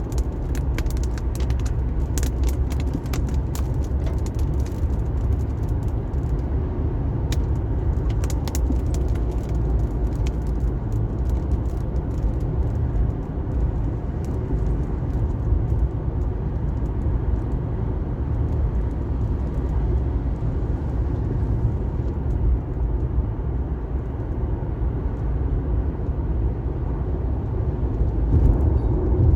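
Car driving on a rain-wet highway: a steady low rumble of engine and tyres on wet road. Many sharp ticks come through over the first ten seconds or so, then thin out and stop.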